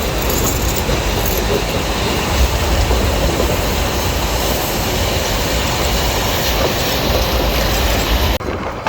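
Loud running noise of a Nilgiri Mountain Railway metre-gauge passenger train heard from inside the carriage as it rolls downhill: a steady rumble and rattle of wheels on the rails. The noise drops off suddenly near the end.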